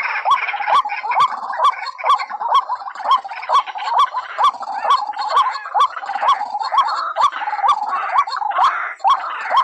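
White-breasted waterhen calls: a fast, steady run of short hooked notes, about two to three a second, each with a sharp click, over a busier overlapping chatter. This is the monotonous repeated call used as a lure for the species.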